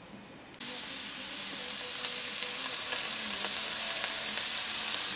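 Chopped onion and fresh curry leaves frying in hot oil in a wok. A loud, steady sizzle starts abruptly under a second in and grows slightly louder.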